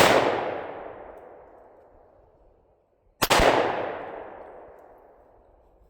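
Two pistol shots about three seconds apart, each a sharp crack followed by a long echoing tail that fades over a couple of seconds.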